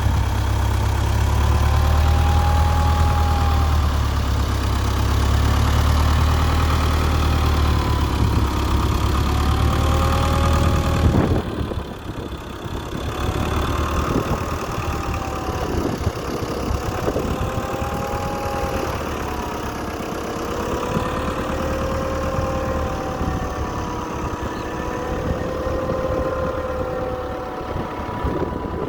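Case tractor engine running steadily, louder for the first ten seconds or so, then dropping to a quieter, lower idle for the rest.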